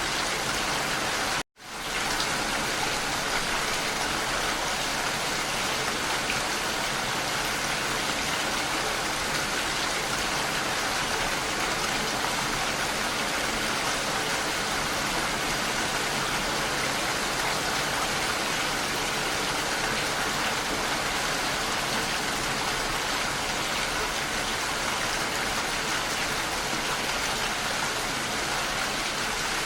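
Steady rain falling, an even continuous hiss of drops. It cuts out for a moment about a second and a half in and fades straight back.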